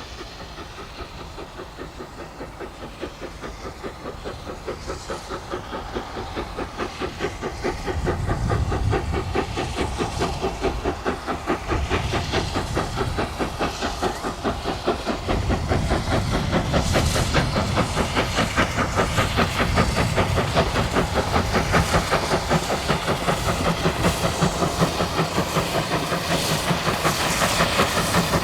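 NZR Ww class steam tank locomotive No. 480 working, its exhaust beats and running gear making a steady rhythm with steam hissing. It grows steadily louder as it draws nearer.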